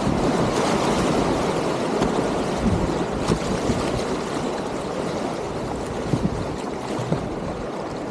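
Whitewater rapids rushing steadily around a kayak in the current, with a few short splashes.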